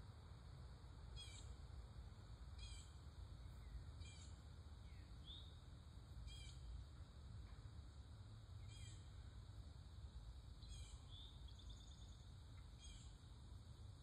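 Faint yard birdsong: one bird repeats a short, high, descending call seven times, about every two seconds, with a few other brief chirps, over a low steady rumble of distant traffic.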